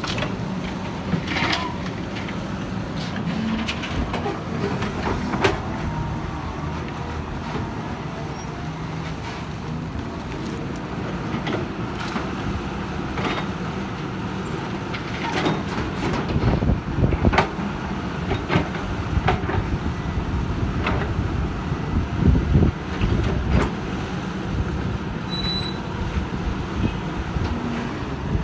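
Caterpillar 320 hydraulic excavator's diesel engine running steadily, with irregular knocks and clanks of the machine at work, louder and more frequent around the middle of the stretch.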